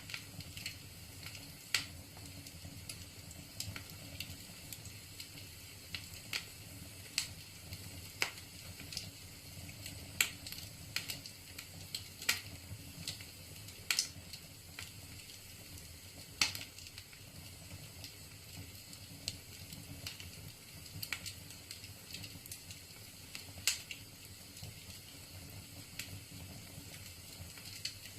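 Wood fire crackling in a fireplace: irregular sharp pops and snaps from the burning logs over a steady low background noise.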